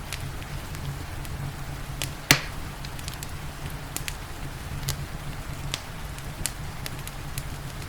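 Wood fire crackling in a fireplace, with scattered sharp pops and one loud pop a little over two seconds in, over a steady hiss of rain.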